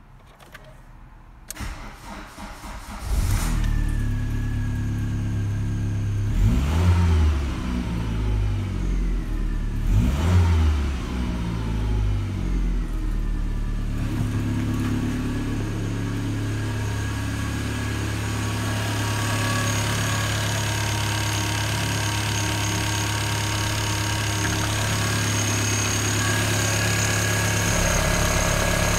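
VW Passat B4 1.8-litre ADZ petrol four-cylinder engine cranked and started about two to three seconds in, then idling. It is revved briefly twice, rising and falling back, then settles to a steady idle.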